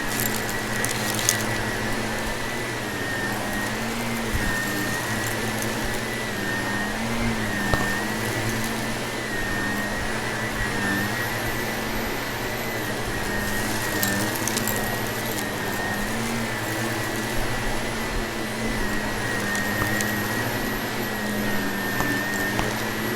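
Vacuum cleaner running steadily, its motor pitch wavering slightly as it works. A few brief crackles, about a second in and again about two-thirds of the way through, as it sucks up crunchy debris.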